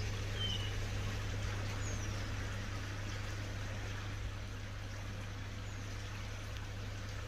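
Koi pond water running and splashing steadily, over a low steady hum. A few brief high chirps sound about half a second, two seconds and six seconds in.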